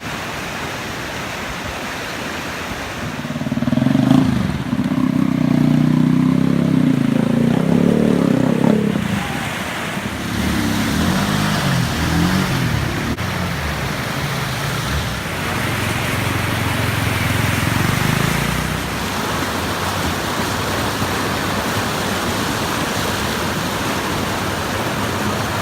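Motor vehicle engines passing, loudest about three to nine seconds in, with engine sound rising and falling twice more later, over a steady rushing noise.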